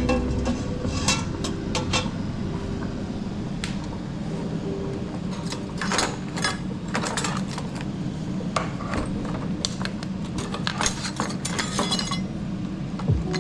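Kitchen dishes and utensils clinking and knocking in a run of scattered sharp clicks, busiest about six to seven seconds in and again around eleven seconds.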